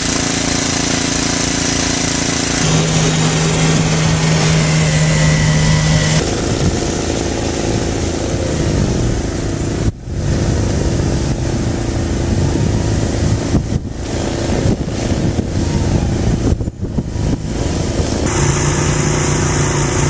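Snowblower engine running steadily, its note shifting abruptly in pitch a few times.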